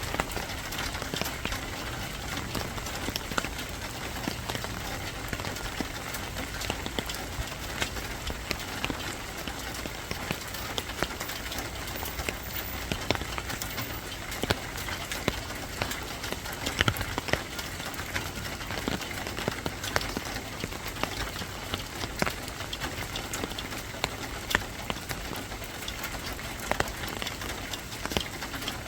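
Steady rain falling, with many sharp individual drop hits scattered throughout.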